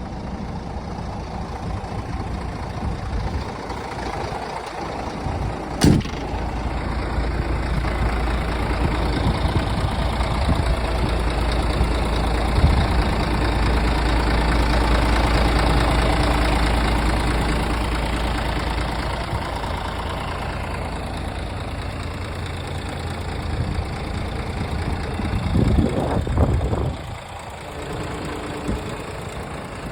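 Scania R450 truck's 13-litre six-cylinder diesel engine running at idle, growing louder for a while in the middle, with a sharp click about six seconds in.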